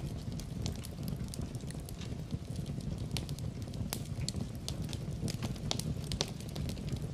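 Fire burning in a fireplace, crackling with frequent irregular sharp pops over a steady low rumble of the flames.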